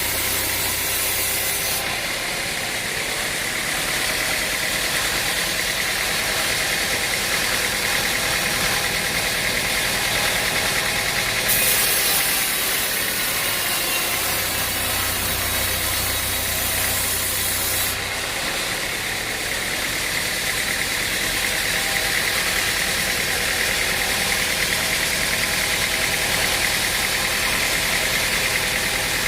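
Sawmill machinery running steadily with an engine-like drone. A high hiss and a low hum come and go twice.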